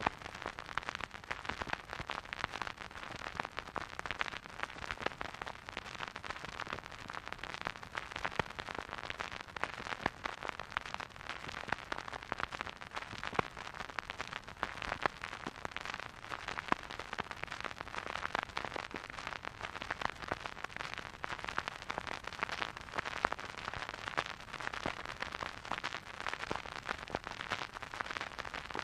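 Vinyl record surface noise from a turntable: a steady soft hiss dotted with dense crackles and pops.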